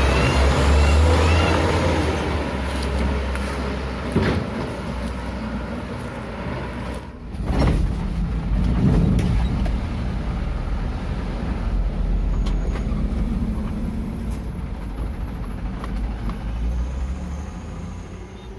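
Dump truck's diesel engine running, swelling louder about eight seconds in, then fading away near the end.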